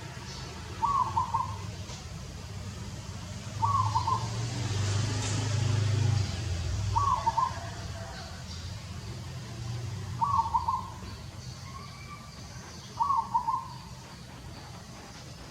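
A bird gives a short hooting call five times, about three seconds apart, over a low steady rumble.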